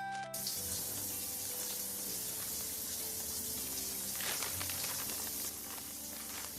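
A steady, crackling hiss that comes in suddenly just after the start and cuts off suddenly at the end, with a few faint held tones underneath.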